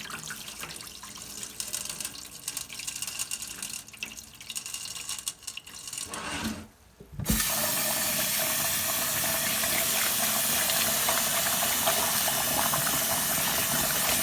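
Water and wild bird seed sloshing and splashing as the grain is rinsed, with small clicks. About seven seconds in it goes almost quiet, then a tap comes on and runs steadily.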